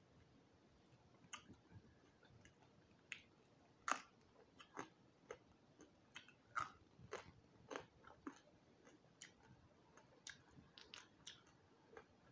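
Close-miked chewing of crispy roasted quail: irregular sharp crunches and crackles as the teeth work through the crisp skin and small bones. The loudest crunch comes about four seconds in.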